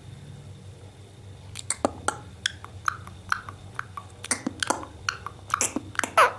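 Pet parrot making a run of short, irregular clicks and brief chirps, starting about a second and a half in.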